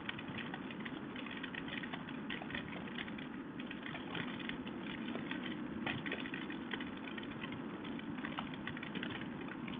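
Heavy rain with big drops: many close, irregular ticks of raindrops hitting hard surfaces nearby, over a steady low rumble that fits the KLR 650's single-cylinder engine idling.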